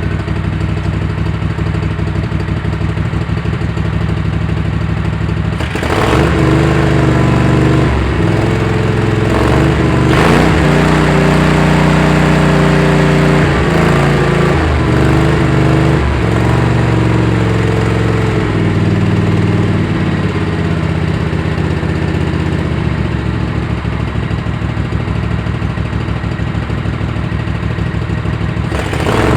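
Kohler Command CH-series V-twin small engine running: a steady idle at first, then about six seconds in the engine speed comes up and wavers up and down before easing back near the end. The engine runs on a stand-in carburetor and non-original coils while it is being chased for running rich and idling rough.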